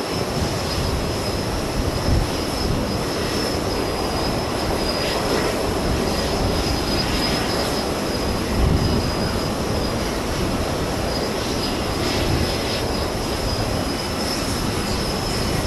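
Jet airliner engines running, an Airbus A321neo on approach, mixed with strong gusty wind buffeting the microphone. It is a continuous, steady rumble with a faint high whine throughout.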